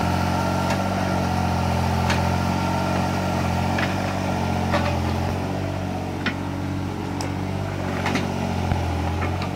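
Small hydraulic excavator's engine running steadily, with a handful of sharp metallic knocks scattered through it from the machine at work.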